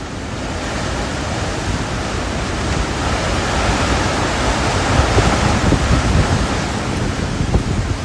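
Hurricane wind gusting, a steady rushing noise that swells over the first five seconds, with wind buffeting the microphone.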